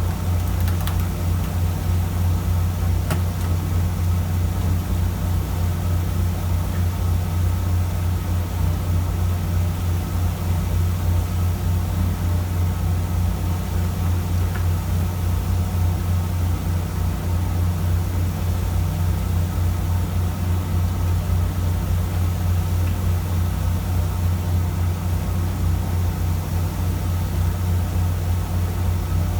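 A fishing boat's engine running steadily with a constant low drone.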